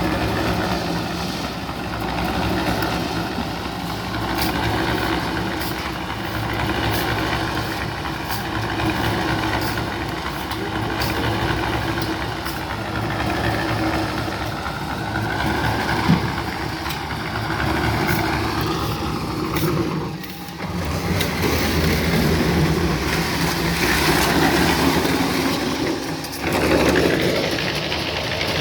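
An engine running steadily, with scattered clicks and knocks over it. The sound drops briefly twice near the end.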